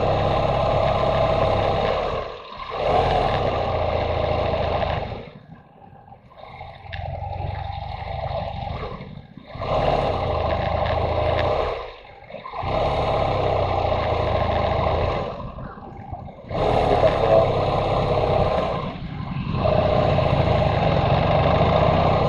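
Motorcycle engine running under load, mixed with the rush of wind, the sound dropping away briefly several times and once for about four seconds.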